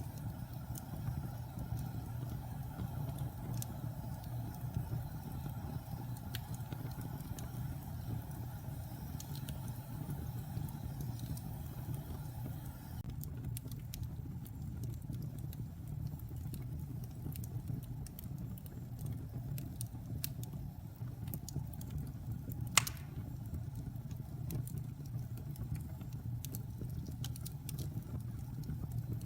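Fire burning in a fireplace: a steady low rumble with scattered crackles, and one sharp pop a little past two-thirds of the way through.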